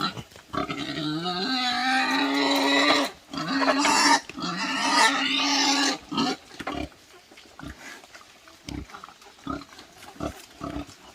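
Wild boars squealing loudly in long, pitched cries for about six seconds, then only short, quieter grunts and knocks.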